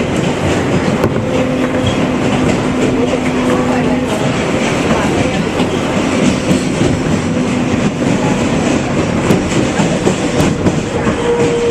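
New York City subway 7 express train running at speed, a steady rumble with the wheels clicking over the rail joints and a held tone coming and going.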